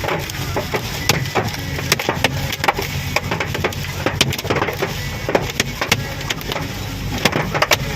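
Hailstones pelting a car's body and windshield in a hailstorm, an irregular rapid patter of sharp hits, several a second, heard from inside the car over the low hum of the engine.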